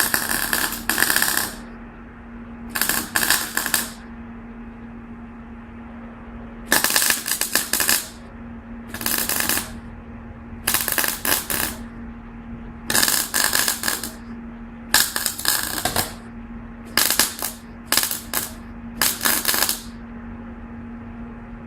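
About ten short bursts of rapid mechanical rattling, each half a second to a second long and spaced a second or two apart, over a steady low hum.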